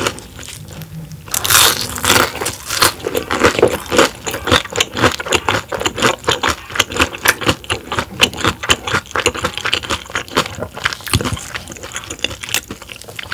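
Close-miked crunchy chewing of battered, deep-fried soft-shell crab: a rapid, dense crackle of the fried batter and soft shell breaking between the teeth, with a louder crunch about a second and a half in.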